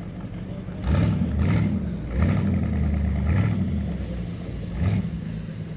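Classic car engine running, revved several times: it picks up about a second in and surges again around two seconds and near five seconds.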